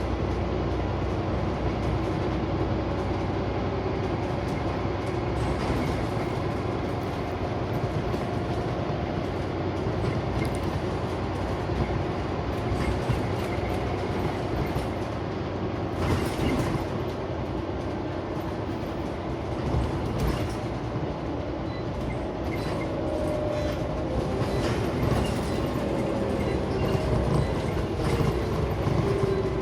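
Scania CN94UB Omnicity single-deck bus under way, heard from inside: the engine and drivetrain run under a steady rumble of road noise, with the engine note rising and falling as the bus changes speed. Body panels rattle throughout, and there is a sharper knock about halfway through.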